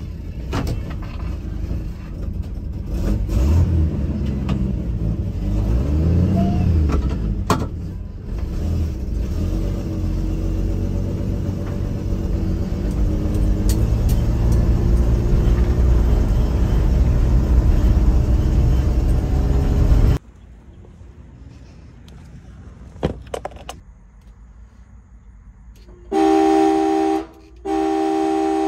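Engine of an older Dodge with an automatic transmission, heard from inside the cab as it drives off, its pitch rising and falling with the revs, over steady road noise; it cuts off suddenly about two-thirds of the way through. Near the end, a loud steady tone sounds twice with a short break between.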